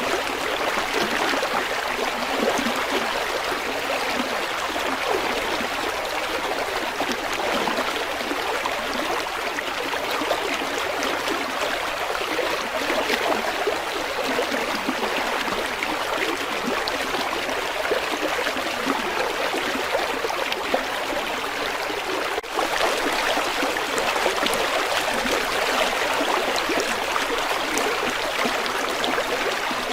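River water flowing and babbling steadily, an even rushing wash with a momentary dip about two-thirds of the way through.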